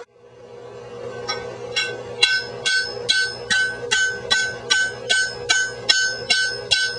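Blacksmith's hammer striking hot iron on an anvil, a steady run of about two blows a second, each blow ringing. The work is forging the head of an iron broad axe.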